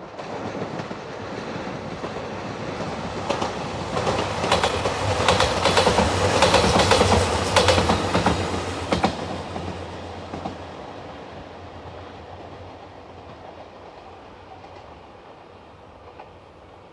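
A train passing close by at speed, its wheels clacking rhythmically over the rail joints; the sound builds, is loudest for a few seconds about a third of the way in, then fades away.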